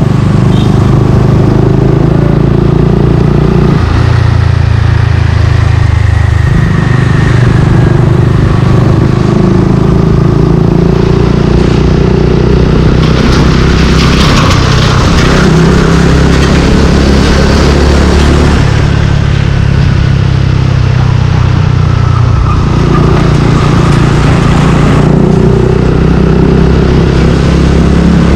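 Suzuki Gixxer 155's single-cylinder four-stroke engine running through a Yoshimura exhaust while riding, loud and steady, with the engine note stepping up and down several times as the throttle changes. About halfway there is a rush of wider street noise.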